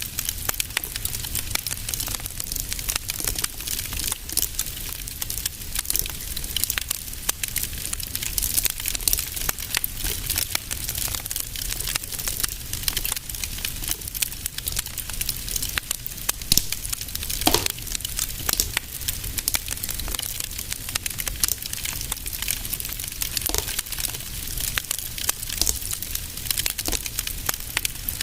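Wood fire in a fireplace crackling steadily, with dense small pops and hiss, and two louder snaps about two-thirds of the way through and again near the end.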